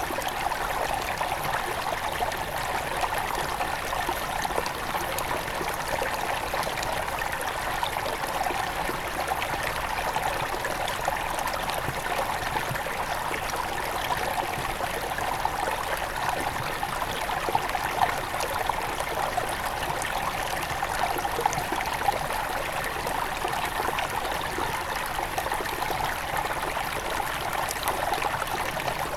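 Small mountain river near its source flowing and burbling over stones, a steady rush of water full of small splashes and trickles.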